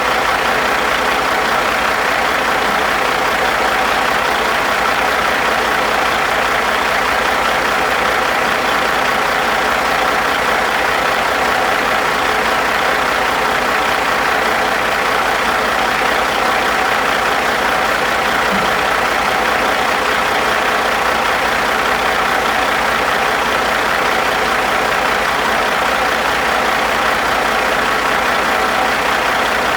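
Caterpillar 3406E 14.6-litre inline-six diesel engine idling at a steady, unchanging speed.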